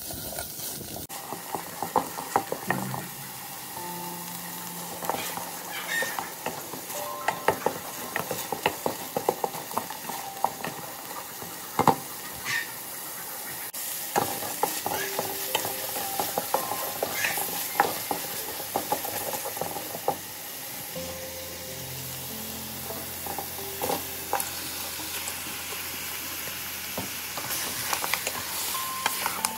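Curry paste sizzling in hot oil in an aluminium pot while a metal spoon stirs and scrapes it, clinking against the pot in irregular knocks over a steady hiss. Near the end, raw duck pieces are stirred through the paste with a wooden spatula.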